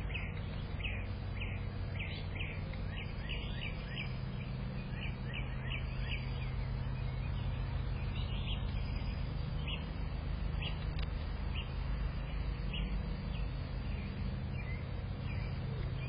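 Backyard songbirds chirping in quick short notes, thick in the first several seconds and more scattered later, over a steady low rumble.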